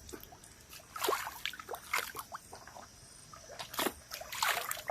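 Hands scooping water from a shallow stream and splashing it onto a face, in two bouts of splashing and dribbling about two and a half seconds apart.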